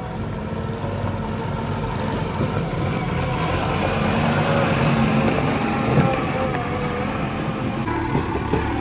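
Heavy diesel engine of a tractor or backhoe loader running steadily, getting gradually louder over the first few seconds.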